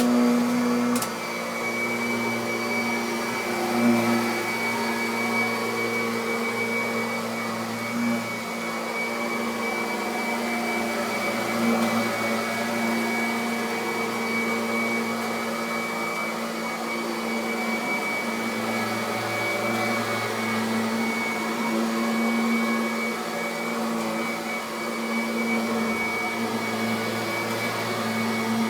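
Kirby Avalir upright vacuum cleaner running steadily on carpet, a constant motor whine over rushing air, vacuuming up the carpet after it has been shampooed. The level drops a little about a second in, and the tone wavers slightly as it works.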